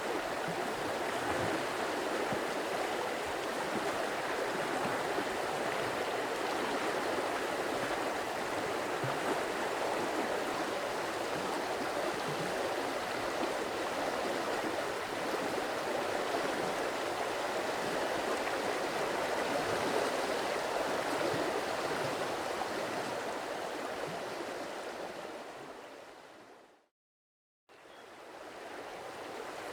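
Steady rush of running water, as of a stream or small waterfall. Near the end it fades out to a moment of silence and then fades back in.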